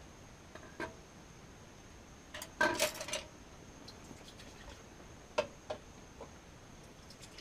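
Scattered clinks and clatter of dishes and cutlery, with a louder cluster of clinks about two and a half to three seconds in.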